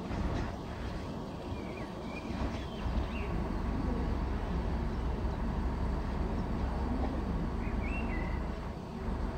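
Low rumble of a train running on the tracks, strongest from about three seconds in until shortly before the end, with a bird chirping briefly twice.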